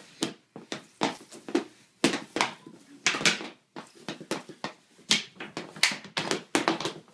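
Irregular clacks and knocks of hockey sticks hitting during play, about two a second, some louder than others.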